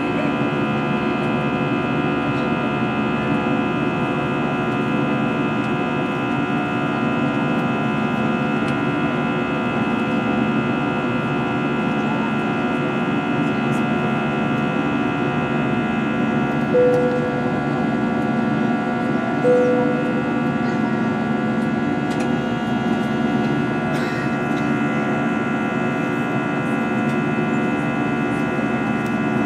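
Steady cabin drone of an Airbus A320 in flight, from engine and airflow noise, with several steady humming tones. Past the middle, two short tones sound a few seconds apart.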